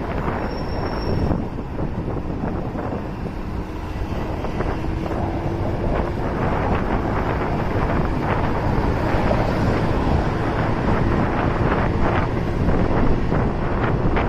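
Wind buffeting the microphone of a moving motorcycle, over the steady rumble of the bike's engine and road noise.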